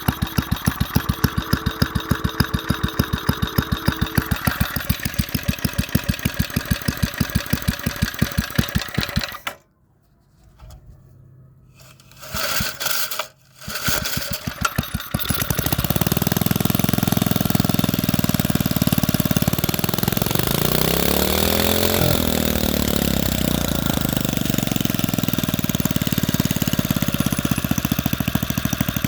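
Briggs & Stratton single-cylinder engine idling low, each firing stroke a separate, evenly spaced beat, as its idle is tried as low as it will go. It dies about nine seconds in, catches again a few seconds later, and then runs faster and steadier, briefly rising and falling in speed around twenty seconds.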